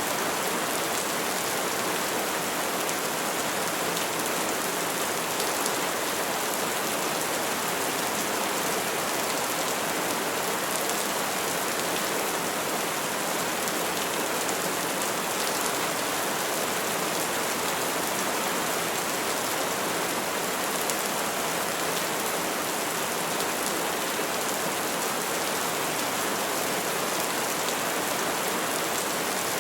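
Steady rain falling, an even, dense hiss with fine patter of drops and no thunder.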